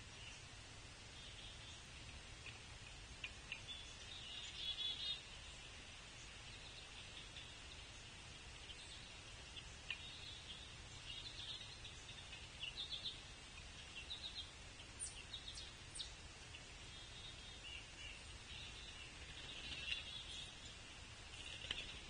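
Faint outdoor feeder ambience: high-pitched bird chirps come in short bursts again and again over a constant low hum, with a few sharp ticks.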